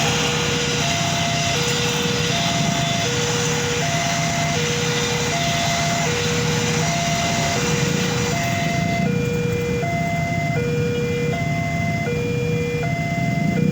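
Railway level-crossing warning alarm sounding a steady two-tone ding-dong, alternating low and high notes about every three-quarters of a second, over a loud rumbling hiss that eases about nine seconds in.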